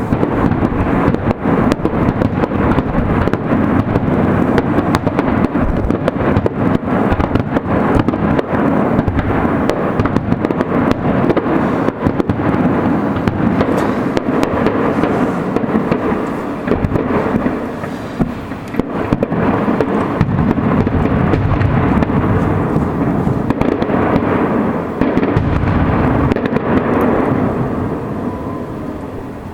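Fireworks going off in a rapid, continuous barrage of bangs and crackling over a rolling rumble, thinning out and fading near the end.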